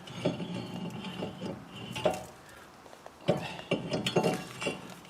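Brake disc being slid onto a Chevrolet Cruze front wheel hub and turned to line up its screw hole: a series of sharp metal clinks and knocks, coming more closely together about three seconds in.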